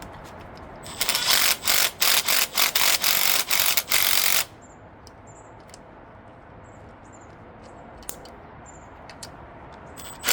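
A power impact gun driving a bolt on an engine in a quick series of loud bursts for about three seconds. After that come a few faint clicks of tools being handled.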